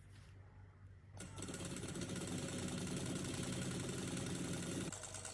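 A small model engine starts running about a second in, with a fast, even mechanical chatter, and gets quieter near the end.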